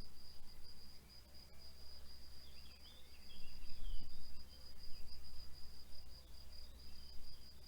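Crickets trilling steadily in a high, rapid pulse, with a few short chirps about halfway through, over a low rumble.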